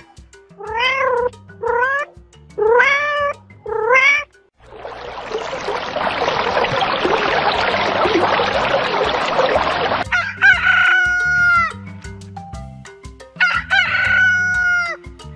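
Domestic cat meowing four times in quick succession, then about five seconds of a steady, noisy rushing sound, then a rooster crowing twice. Background music plays underneath.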